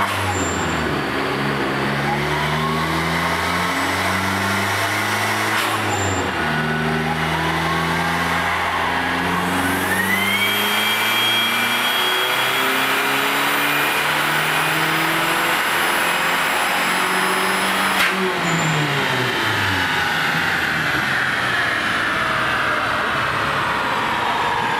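Dodge Neon SRT-4's turbocharged 2.4-litre four-cylinder run hard on a chassis dyno, revs climbing in steps as it goes up through the gears. A high whistle rises with the revs in the final pull. The pull ends suddenly about 18 seconds in, and the engine and rollers wind down.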